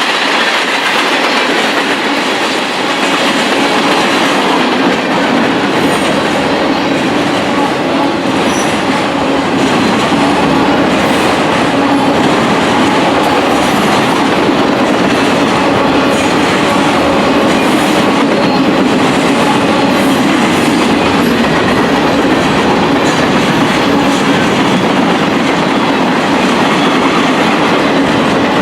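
Train rolling past at close range: a loud, steady noise of its cars' wheels running over the rails.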